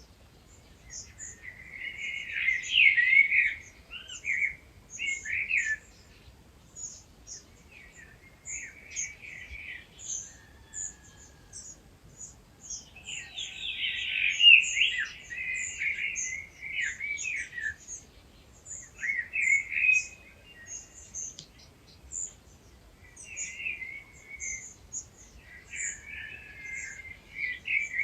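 Wild birds singing in a dawn chorus: loud, rapid warbling song phrases a few seconds long come and go over a steady series of thin, high notes repeated several times a second.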